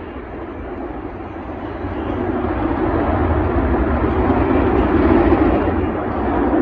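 Aircraft engine noise, a steady rumbling roar that grows louder about two seconds in.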